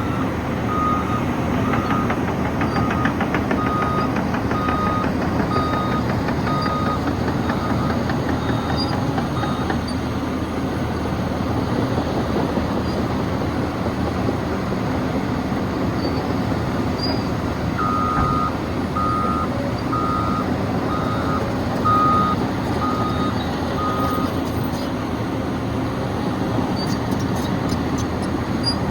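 Caterpillar 963 track loader running steadily while working. Its reversing alarm beeps about once a second for the first nine seconds or so, and again for about six seconds past the middle.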